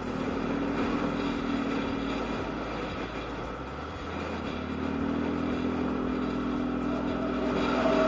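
A motorcycle engine runs steadily under way, over a haze of road and wind noise. Its note fades for a couple of seconds about a third of the way in, then comes back stronger towards the end.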